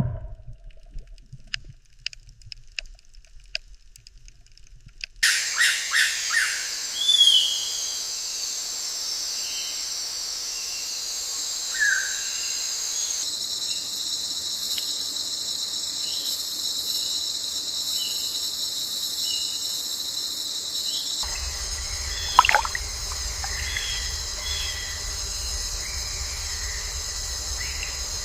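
A steady high insect chorus with scattered short bird chirps over it, starting about five seconds in after a faint opening. One louder bird call comes about three quarters of the way through, and a low rumble joins beneath near the end.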